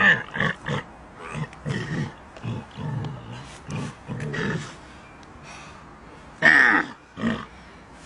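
An animal's repeated short, rough grunts and groans, then a louder, longer call about two-thirds of the way through.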